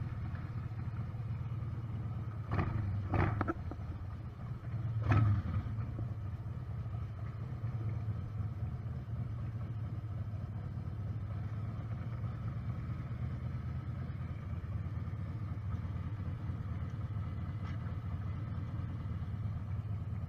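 Motorcycle engine running steadily at low revs with a low, even hum. A few short knocks come about two and a half, three and five seconds in.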